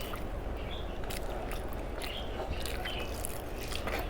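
Eating sounds: chewing, and short scattered clicks and crackles of food being handled, over a steady low hum.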